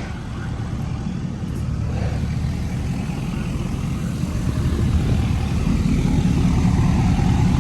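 A motor vehicle's engine running with a steady low rumble at slow speed while it maneuvers into a parking spot, growing gradually louder.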